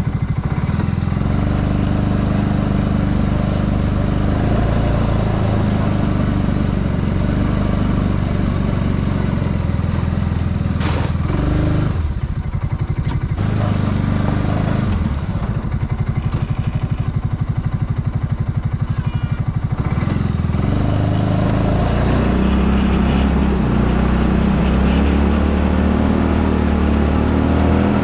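ATV engine running, its speed rising and falling several times, with a few sharp knocks around the middle.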